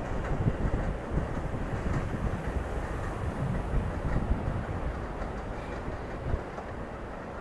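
New York City subway F train running through the station, with a steady low rumble and wheels clattering over rail joints, easing off a little near the end.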